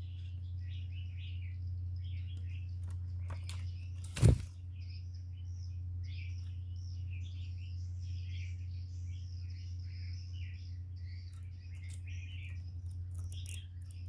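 Small birds chirping again and again over a steady low hum, with one sharp knock about four seconds in.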